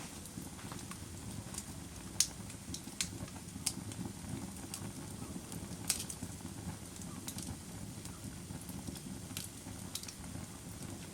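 Fire crackling: irregular sharp snaps and pops, the loudest about two and six seconds in, over a steady low rushing noise.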